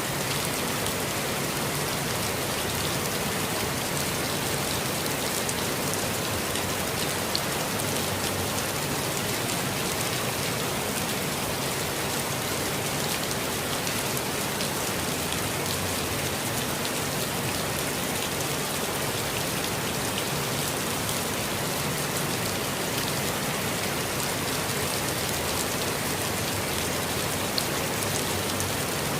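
Steady rainfall pattering on foliage and the ground, an even hiss of many fine drop ticks with no thunder.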